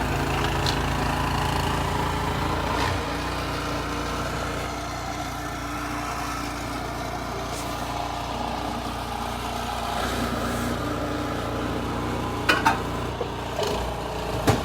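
Snowblower engine running steadily, with a slight drop in its sound about three seconds in. A couple of brief sharp sounds come near the end.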